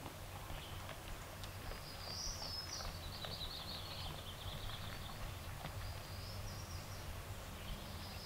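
A songbird singing high, chirpy phrases in the forest, a burst about two seconds in and another near the end, over a low steady rumble of wind, with a few faint clicks.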